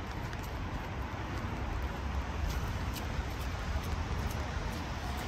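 Steady rain falling, with a low rumble underneath and a few sharp little ticks.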